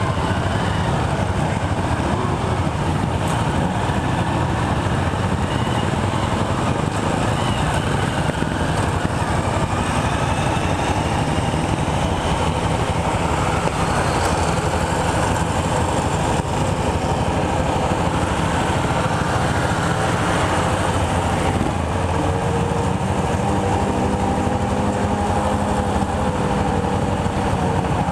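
Motorcycle engines running, with steady road and traffic noise and some rising and falling engine note.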